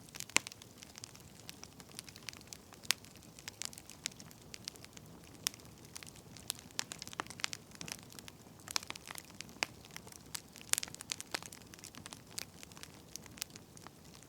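Firewood burning, crackling with irregular sharp pops, several a second, over a faint steady hiss.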